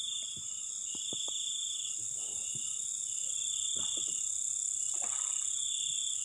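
Night chorus of crickets and other insects: a steady high drone with a pulsing trill that swells in repeated bouts every second or two, and a few faint knocks.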